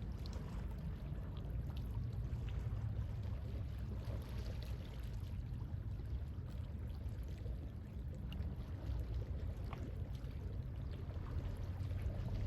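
Calm sea waves washing in a steady low wash, with scattered faint small water ticks.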